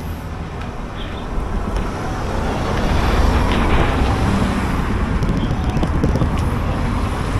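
Wind buffeting the microphone and road noise from a bicycle being ridden uphill: a steady rumbling rush that grows louder about two to three seconds in.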